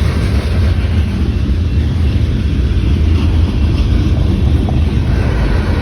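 Passing train giving a steady low rumble.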